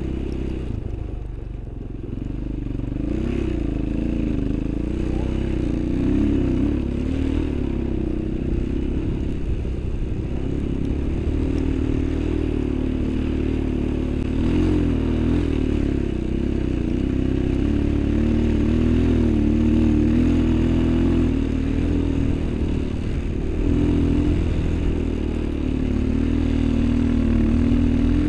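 Small vehicle engine running under load, its revs rising and falling throughout while it labours up a snowy slope, with some clattering and scraping.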